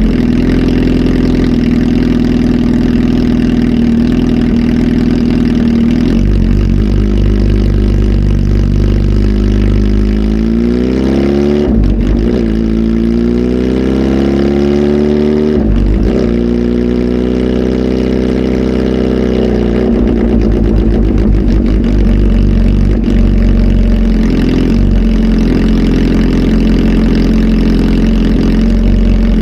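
Kawasaki ZH2 SE's supercharged inline-four, flash-tuned and breathing through a full aftermarket exhaust system, idling loudly. It is blipped up in pitch twice in the middle, then held at higher revs for a few seconds before easing back to idle.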